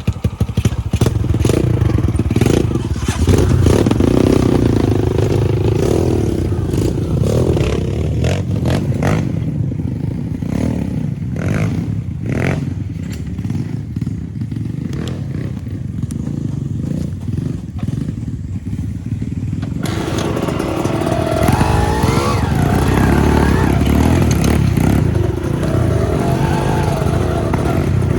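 Trail motorcycle engine running at low revs, with frequent knocks and clattering as the bike works over rocks. About 20 s in the sound changes abruptly, and the engine revs rise and fall.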